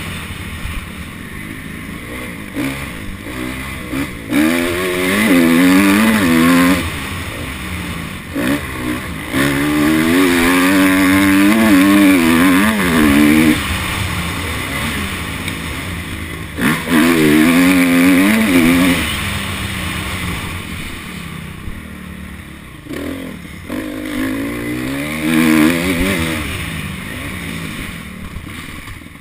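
Honda CRF250 dirt bike's single-cylinder four-stroke engine revving hard in repeated bursts, its pitch climbing through each run and falling back off the throttle between them.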